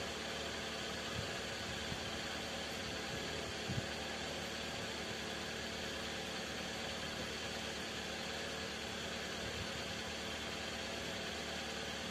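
A steady engine hum, like a vehicle idling, over an even background noise, with a few faint knocks in the first four seconds.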